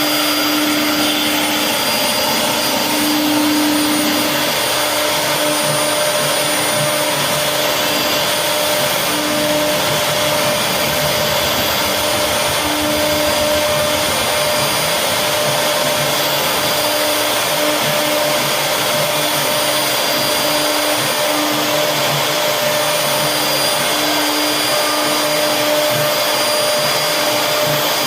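CNC wood router running steadily, its spindle whining while the bit cuts wood. A lower hum comes and goes every second or so as the cut changes.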